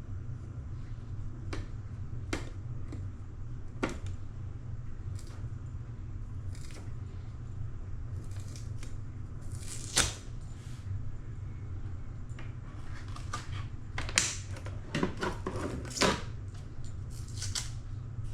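Hard plastic parts of a Nespresso Vertuo Pop coffee machine and its water tank being handled: scattered clicks, taps and rustles, with one sharp click about halfway and a busy run of clicks near the end, over a steady low hum.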